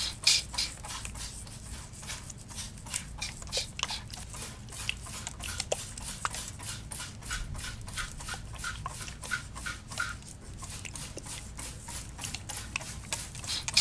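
Water spray bottle and hands working the hair close to the microphone: a rapid, irregular run of short crisp spritzes, swishes and clicks, a few each second.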